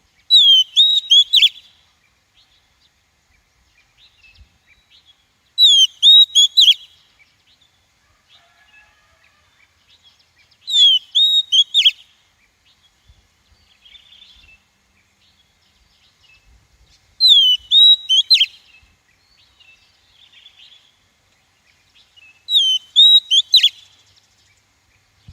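Female Oriental magpie-robin singing: a short phrase of clear, sliding whistled notes, given five times at intervals of about five to six seconds.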